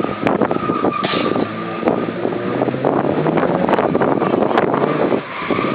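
Westfield kit car's Ford 1.6 16-valve engine running hard under heavy wind rush on the microphone; its pitch rises about three seconds in.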